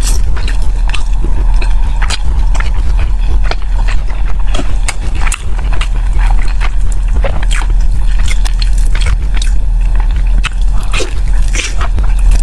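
Close-miked chewing of a zongzi's sticky glutinous rice: many wet, irregular mouth clicks and smacks. A steady low hum runs underneath.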